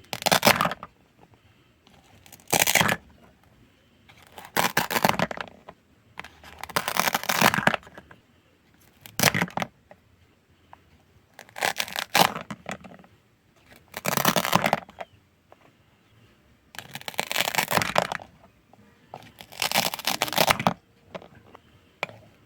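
Food being cut, one cut at a time: about ten crackly, crunching cuts, each under a second long, roughly two seconds apart.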